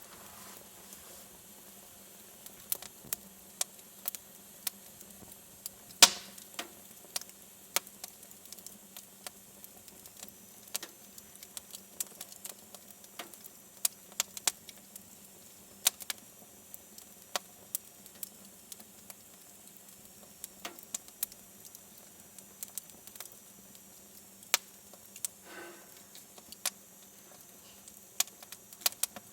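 Wood fire burning in a fireplace, crackling with irregular sharp pops, one much louder snap about six seconds in.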